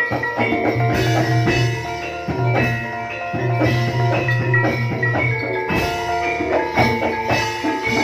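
Javanese gamelan music for a jaranan dance: mallet-struck metal keys and gongs play a dense, rhythmic pattern over drums, with low held gong tones sounding in long stretches.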